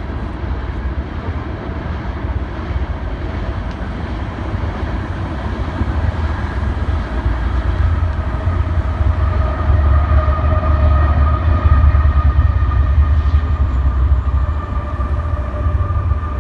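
Loaded coal train rolling past with a heavy, continuous rumble of the freight cars on the rails. The rumble grows louder about halfway through, and a steady whine joins about six seconds in and strengthens.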